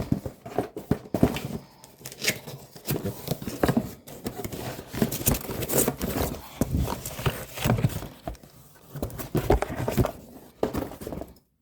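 Irregular clatter of metal parts and hardware being handled, knocked together and set down, with short clinks and knocks following one another unevenly.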